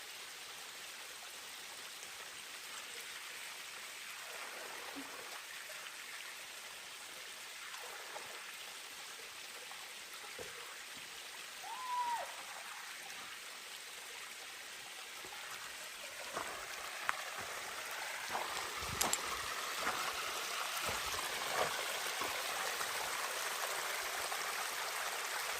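Small waterfall and its stream splashing and running steadily, growing a little louder about two-thirds of the way in.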